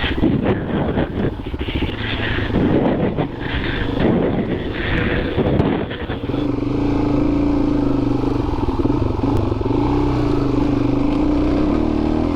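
Dual-sport motorcycle being ridden on a dirt trail: a choppy engine note with rough-ground rumble for about six seconds, then the engine settles into a steady, even note.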